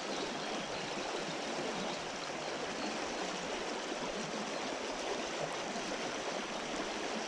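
River water rushing steadily over a shallow riffle, an even hiss of flowing water.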